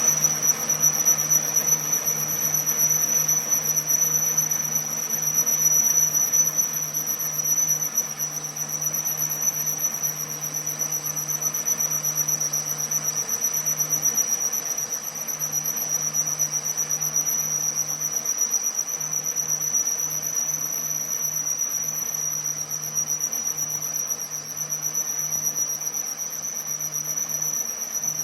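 A workshop machine running steadily, with a constant high-pitched whine over a low hum.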